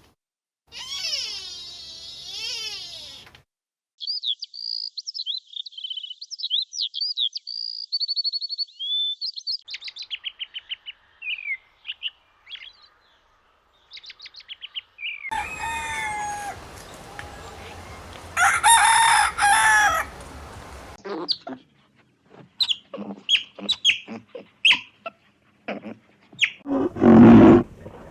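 A run of short bird calls: high chirping and trills for several seconds, then a rooster crowing and chicken clucking. There is a wavering pitched animal cry near the start and a loud call near the end.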